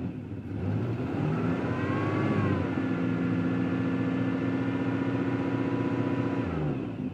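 1992 Pontiac Firebird's 3.1 V6 revved up from idle about a second in, held at a raised speed for several seconds, then released near the end and dropping back to idle. It runs as if starved of fuel and sounds like it has a cam, which the owner says it does not: the cam is stock.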